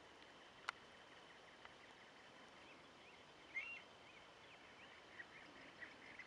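Faint birds calling: scattered short chirps, with one louder call about three and a half seconds in, over a steady faint high tone. A single sharp click comes just under a second in.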